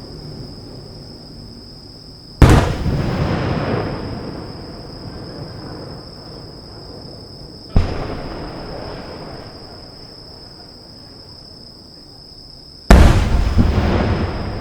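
Aerial firework shells bursting: three loud booms about five seconds apart, each trailing off in a rolling echo over a second or more. The middle boom is fainter and shorter than the other two.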